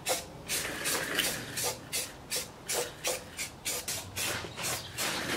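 Aerosol can of primer spraying in quick short hissing bursts, about two or three a second, sealing sanded bare metal against surface rust.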